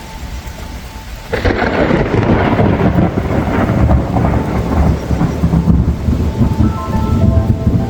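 Rain falling steadily. About a second in, a loud, low rumble of thunder breaks in and keeps rolling.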